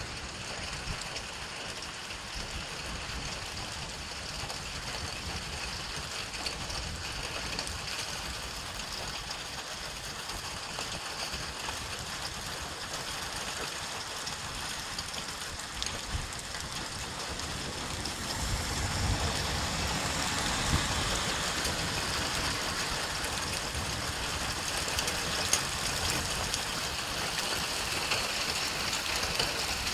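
Heavy thunderstorm rain falling steadily on a wet street, a continuous hiss that grows louder about two-thirds of the way through.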